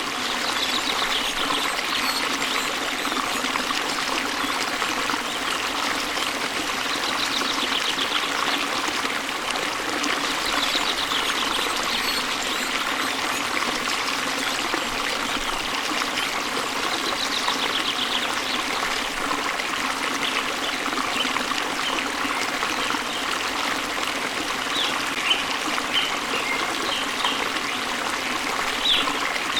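Waterfall splashing into a stream, a steady, even rush of falling and flowing water. Faint bird trills come and go a few times over it.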